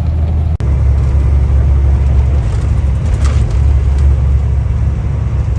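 Steady low engine and road rumble of a semi truck on the move, heard from inside the cab. The sound cuts out for an instant about half a second in.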